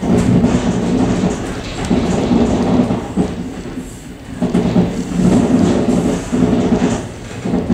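Suburban train rumbling along the rails as it runs through a set of points, heard from inside the train's rear vestibule; the low rumble swells and eases several times.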